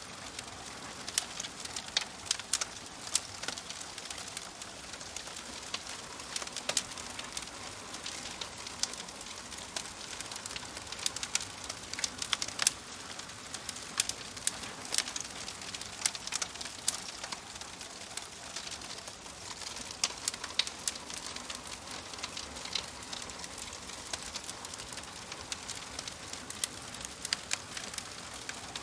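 Wood fire crackling in a fireplace: irregular sharp pops and snaps scattered over a steady soft hiss.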